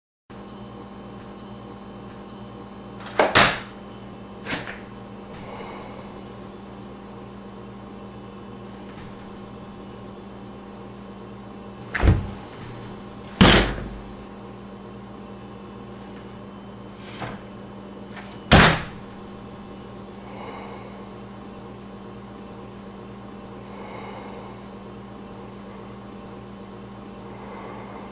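An interior wooden door banging and knocking in its frame: about six sharp bangs falling in three pairs, over a steady electrical hum.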